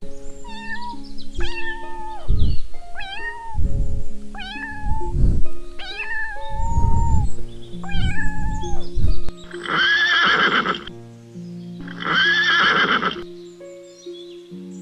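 Music with animal calls over it: a run of short pitched calls about every second and a half, then two longer, harsher calls near the end.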